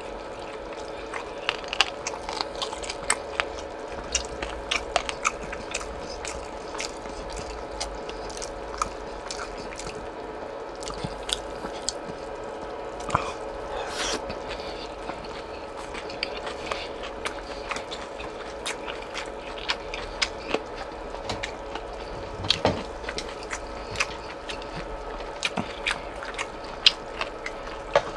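Close-miked chewing of boiled pork slices (suyuk), with many short wet mouth clicks and smacks scattered throughout over a faint steady hum.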